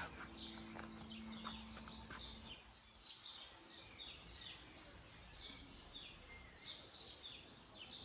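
Small birds singing in the trees: many short, repeated chirps, faint over quiet outdoor background, with a low steady hum that stops about two and a half seconds in.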